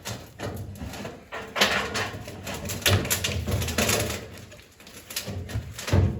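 Scraping, rubbing and knocking of chimney pipe sections being pushed up inside a chimney, in irregular bursts.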